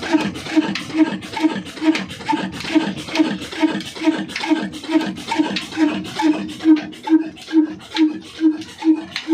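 Old Ruston slow-speed diesel engine running steadily, a regular heavy beat of about two and a half firing strokes a second.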